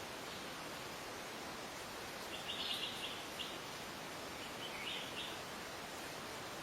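A wild bird gives two short bursts of rapid, high chirping notes, one about two and a half seconds in and another about five seconds in, over a steady background hiss.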